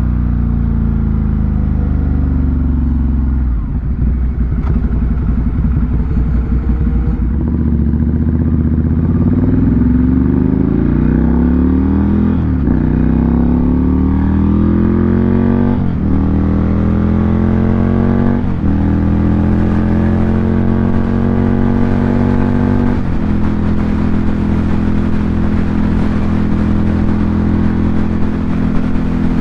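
2018 Ducati Monster 797's air-cooled V-twin through an SC Project aftermarket exhaust, pulling through the gears: the pitch climbs and drops back at each upshift, three shifts in quick succession through the middle, then it holds a steady cruising speed.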